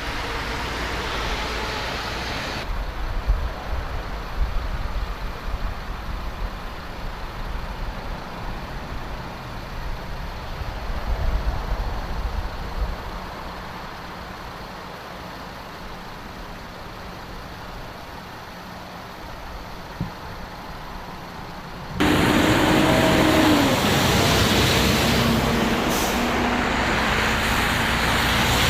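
Snowplow trucks' engines running, heavy-vehicle noise with a low rumble. The sound changes abruptly about three seconds in and again near the end, where it gets much louder.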